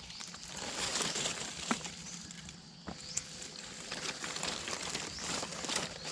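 Footsteps rustling and crunching through dry leaf litter and undergrowth, with a few sharp clicks.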